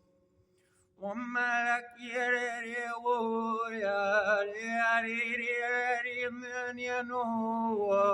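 Wordless a cappella chant-like singing, echoing in a tunnel, with a melody that glides and wavers over a steady low held note. It starts about a second in, after a short pause.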